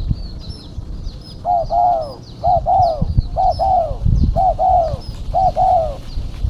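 Female spotted dove (tekukur) calling: five paired, arching notes in quick succession, a short note followed by a longer one each time. Thin high chirps of a small bird repeat throughout, over some low rumbling noise.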